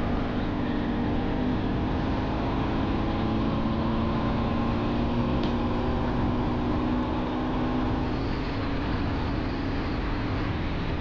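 Motorcycle engine running at a steady speed under a heavy rush of wind on the microphone while riding; the engine note shifts about eight seconds in.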